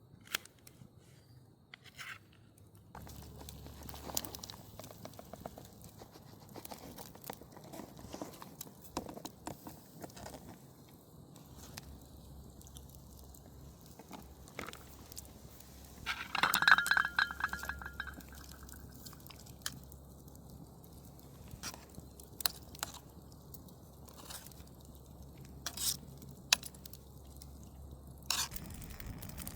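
Small objects being handled: scattered light clicks, clinks and crunches, with a louder rapid rattle and a brief ringing tone a little past halfway.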